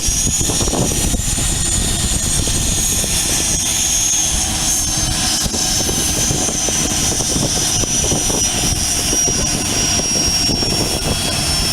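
Learjet's jet engines running at low power as it taxis: a steady high-pitched whine that rises slightly, then slowly sinks, over a low rumble.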